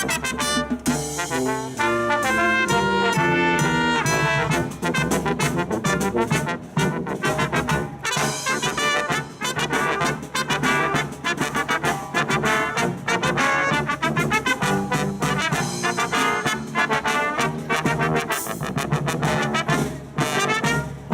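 Live brass band playing a medley, a full ensemble of brass with a steady beat.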